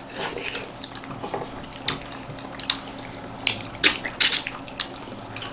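Wet eating sounds: mouth smacks and chewing clicks with scattered light clinks of dishes, from people eating dhido with chicken curry. A few louder smacks come near the end.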